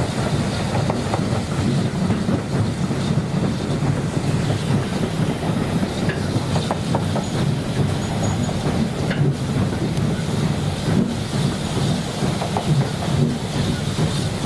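Passenger coach running along the line: a steady rumble of wheels on the track, with a few faint clicks from rail joints.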